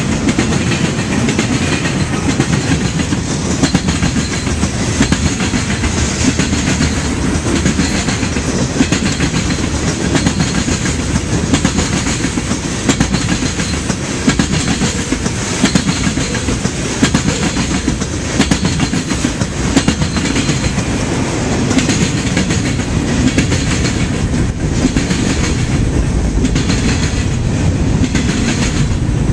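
Freight train's cars rolling past, their steel wheels clicking steadily over the rail joints.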